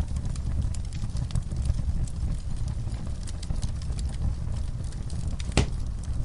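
Wood fire burning in an outdoor fireplace: a steady low rumble with scattered small crackles and pops, and one louder pop about five and a half seconds in.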